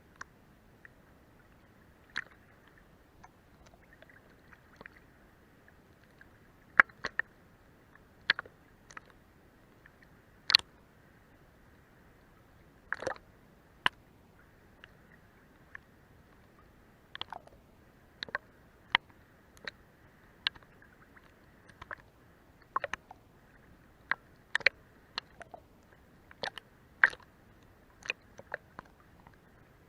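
Sea water lapping against a boat's hull: irregular sharp wet slaps and clicks, often a second or two apart, over a faint steady wash.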